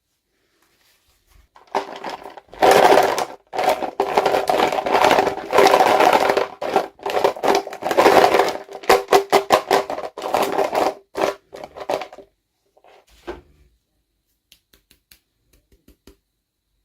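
Plastic toy packaging crinkling and rustling loudly as it is handled and opened, in quick uneven bursts. It stops about three quarters of the way through, leaving a few faint small clicks.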